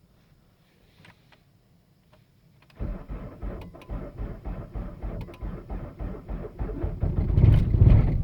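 Opel Astra G 1.7 CDTI four-cylinder diesel being cranked by its starter in a −15 °C cold start: a rhythmic chugging of compression strokes, about four to five a second, begins a little under three seconds in. Near the end the engine catches and fires, loudest as it starts running.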